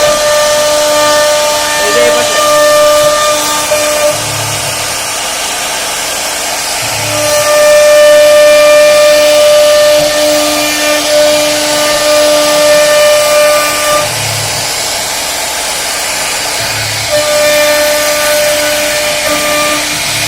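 CNC router carving wood: a steady hiss of cutting under a pitched whine that drops out twice and comes back, with a short low thud each time it stops and starts.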